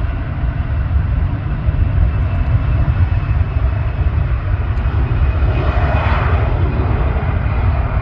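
A jet airliner passing, its engine noise swelling to a peak about six seconds in over a steady deep rumble.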